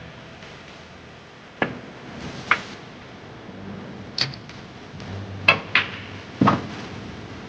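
Snooker balls clicking: about six sharp, irregularly spaced clacks of cue on ball and ball on ball.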